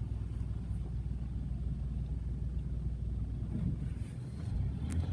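Steady low rumble of a car driving, engine and road noise heard from inside the cabin, easing briefly about four seconds in.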